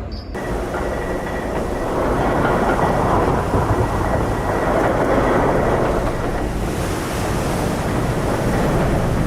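Ship pushing through sea ice: a steady low rumble and grinding noise, with wind on the microphone.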